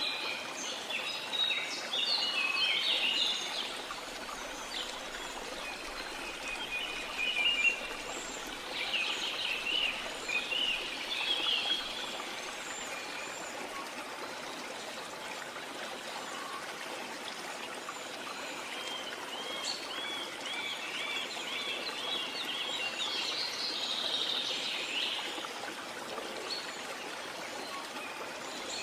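Steady rush of a waterfall, with songbirds chirping over it in several bursts, including one quick run of repeated notes about two-thirds of the way through.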